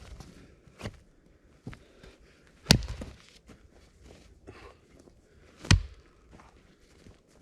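Two loud, sharp knocks about three seconds apart, with a few lighter clicks and faint rustling between them.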